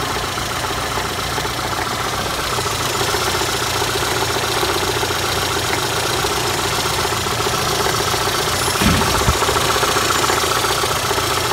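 Daewoo Lanos engine idling with a steady, rapid knock. The knock comes from the crankshaft pulley, whose retaining nut had worked loose.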